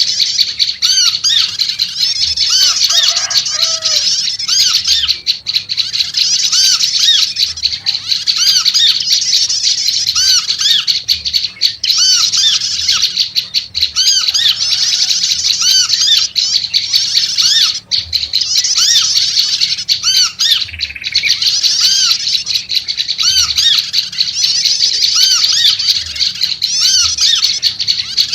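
Prenjak lumut calling without pause in a fast, loud chatter of repeated arched chirps: the agitated, noisy calling used as a lure or tutor recording for birds.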